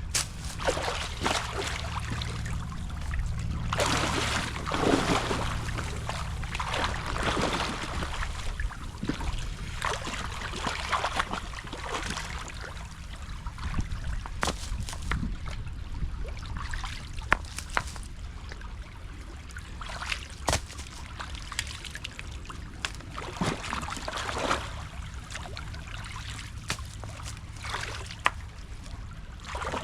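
Creek water splashing and sloshing as sticks, mud and rocks are pulled out of a beaver dam, with water trickling through the breach. Irregular splashes and sharp knocks come and go throughout.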